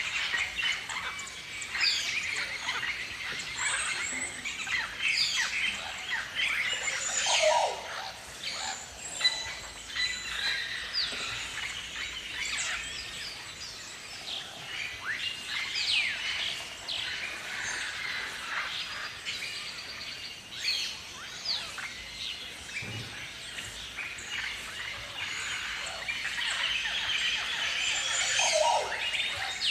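Galahs (rose-breasted cockatoos) calling: many short, high, screechy calls overlapping in a continuous chatter, with quick falling notes.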